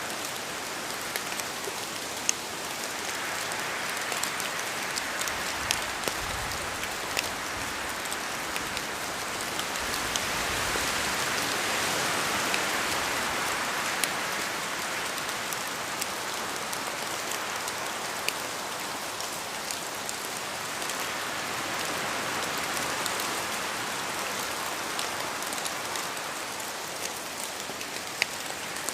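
Steady rain in a forest, with many separate drops pattering from the trees and a hiss that swells and eases in slow waves, loudest about halfway through.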